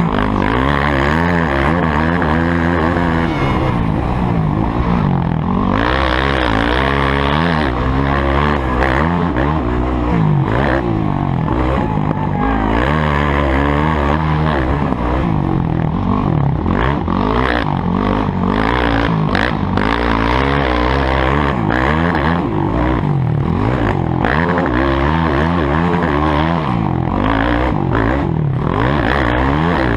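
Motocross bike engines revving hard, their pitch climbing and dropping over and over as they accelerate and shift, with more than one engine heard at once at times.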